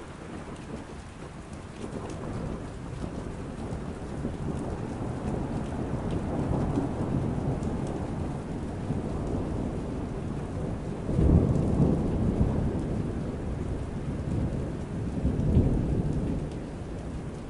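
Steady rain with rolling thunder that builds over several seconds. A sudden louder thunderclap comes about eleven seconds in, and another rumbling swell follows near the end.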